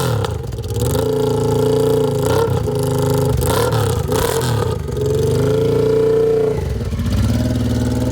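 Honda XRV750 Africa Twin's 742cc V-twin, just started, running and being revved several times, its pitch rising and falling with each blip. It beats like a drum.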